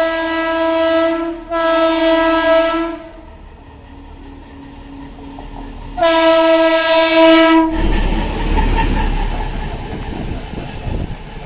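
A train's horn sounds three times, two blasts of about a second and a half, then a longer one about six seconds in, as the train approaches. It then passes close by, with a loud rumble and rush of wheels on rails that slowly eases.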